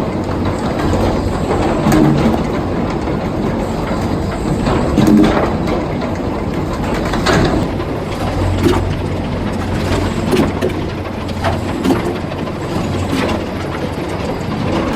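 Sawmill machinery running with a steady low rumble, broken by irregular heavy knocks and clanks.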